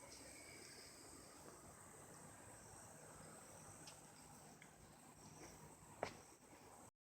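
Near silence: faint hiss with a thin steady high tone and a few faint clicks, one sharper click about six seconds in, then dead silence just before the end.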